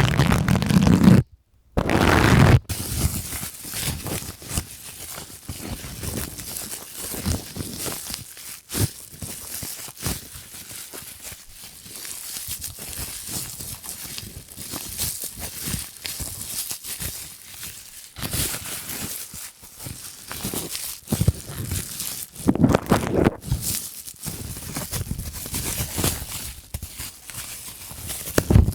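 Plastic being crinkled and scratched close to a sensitive microphone for ASMR: a dense, crackly rustle with many fine clicks, swelling louder in places. Just before it, after a brief cut near the start, there is a short, louder, deeper rubbing.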